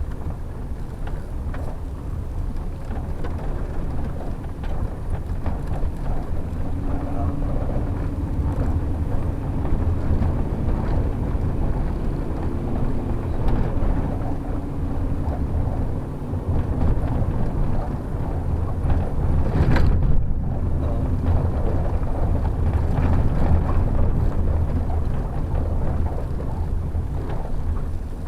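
Steady low rumble of the shuttle's engine and road noise heard while driving, with one short sharp knock about twenty seconds in.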